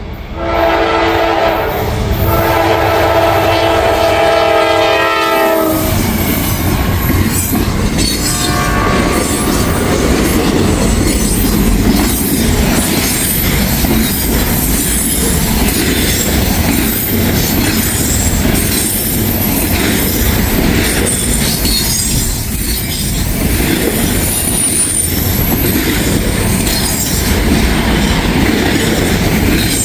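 Norfolk Southern freight locomotive sounding its multi-chime air horn for the grade crossing, then the train arriving with a sudden loud rumble about six seconds in and a short second horn blast. After that the freight cars roll past steadily, with wheels clattering over the rail joints and a thin high squeal at times.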